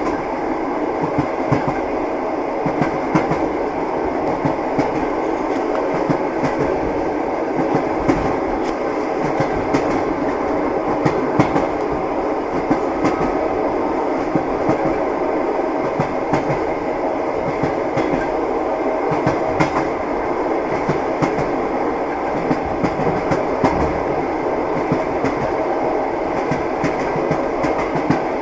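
Passenger train running at speed, heard from inside the carriage: a steady rumble with the wheels clacking frequently over the rail joints.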